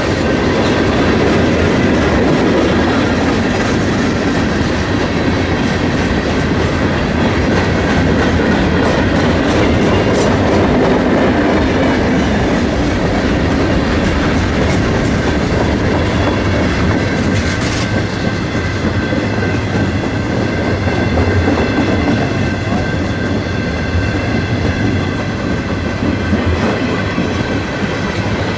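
Railroad cars rolling past at speed: a steady, loud rumble of steel wheels on rail with a clickety-clack over the rail joints.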